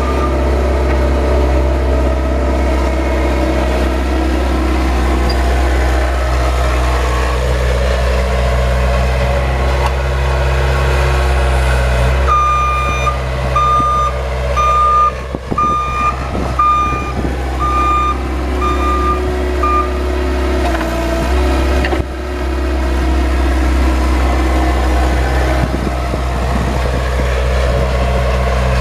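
Plow vehicle's engine running steadily, with a reverse warning beeper sounding about once a second for several seconds midway through as it backs up.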